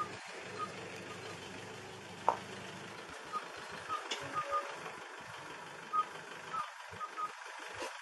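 Bird calling with short, single-pitched pips repeated at irregular intervals, about one every half second to a second, over a steady outdoor hiss. A single sharp click about two seconds in.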